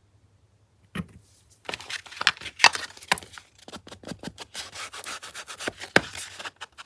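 A single click about a second in, then quick, irregular scratchy rubbing of paper and card on a craft table.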